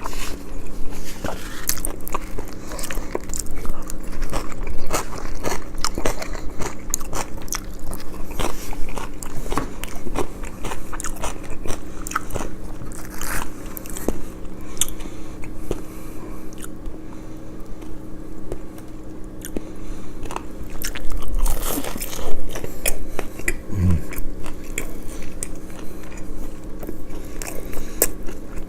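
Close-miked eating sounds: repeated crisp, crunchy bites and chewing of crispy fried food, with irregular crackles throughout and a louder bite about three-quarters of the way in.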